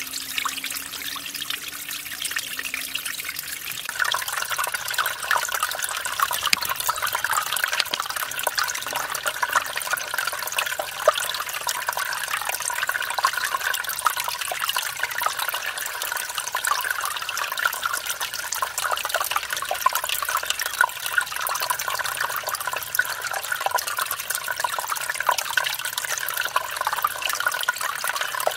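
Mountain stream splashing and trickling over a small waterfall: a steady rush of water that grows louder and fuller about four seconds in.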